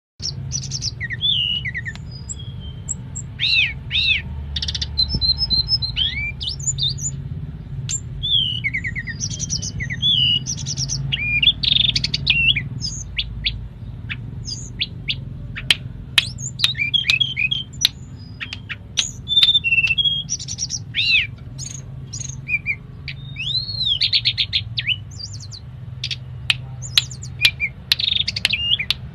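Tledekan gunung (hill blue flycatcher) singing a long, varied song of quick whistled notes that sweep up and down, with sharp clicking notes, its phrases filled with mimicry of other birds. A steady low hum runs underneath.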